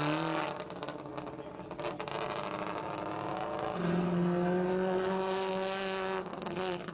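Rally car engine running hard. Through the first half there is a crackly noise with scattered sharp clicks. About halfway in, the engine holds a steady high pitch for a couple of seconds, then drops away near the end.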